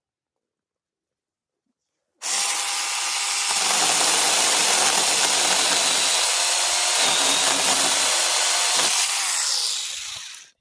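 Mini chainsaw running and cutting into the bush's limbs, starting suddenly about two seconds in, holding steady for about eight seconds, then dying away just before the end.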